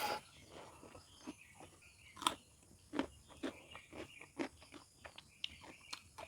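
A person chewing crunchy food with the mouth close to the microphone: irregular wet crunches and clicks, the loudest bite a little over two seconds in.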